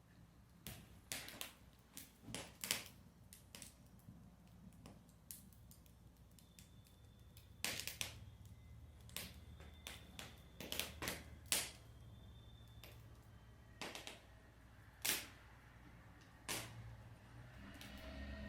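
Wood fire burning in an irori-style fireplace, crackling with irregular sharp pops and snaps, a few of them much louder than the rest.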